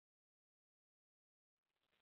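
Near silence: a dead gap between radio transmissions.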